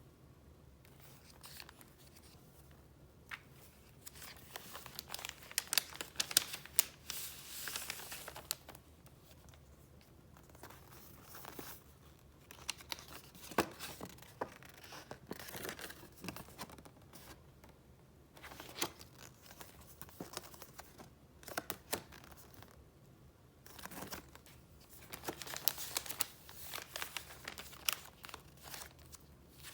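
Sheets of paper handled and flipped through, rustling and crinkling in several spells with small sharp clicks, broken by short quiet pauses.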